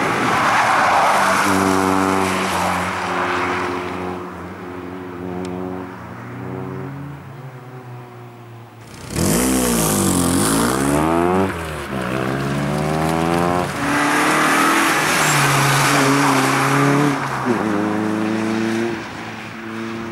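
Nissan Sunny hatchback's four-cylinder engine driven hard through tight turns, its revs stepping up and down as the throttle comes on and off. About nine seconds in it is loudest, with the revs swinging quickly up and down for a couple of seconds.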